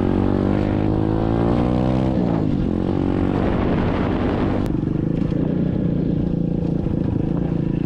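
SSR 125cc dirt bike's single-cylinder four-stroke engine running under way. The revs climb over the first two seconds, drop about two seconds in, then settle into a steadier, lower running sound from about five seconds in.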